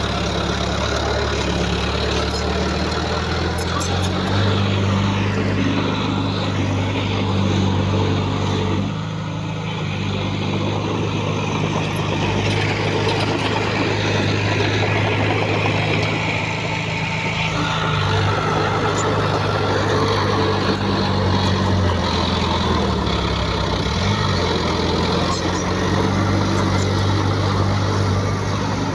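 Heavy diesel engine of an earthmoving machine running under varying load, its pitch stepping up and down, with a brief dip about nine seconds in.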